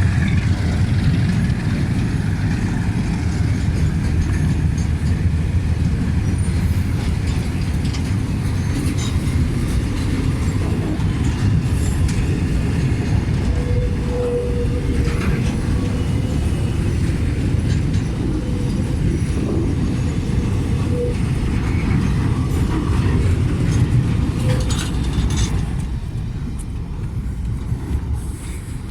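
Train running along the rails: a steady low rumble with a few brief wheel squeals around the middle, fading over the last few seconds.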